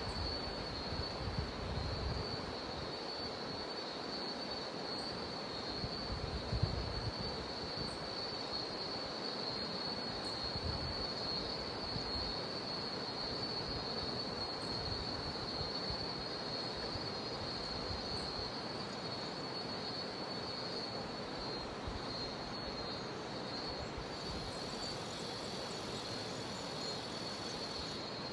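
Jungle river flowing with a steady rush of water, under a continuous high-pitched cicada drone. A second, higher insect buzz joins for a few seconds near the end.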